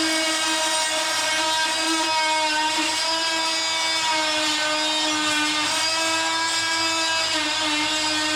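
Handheld power tool trimming an edge, running steadily with a high-pitched whine whose pitch dips slightly now and then under load.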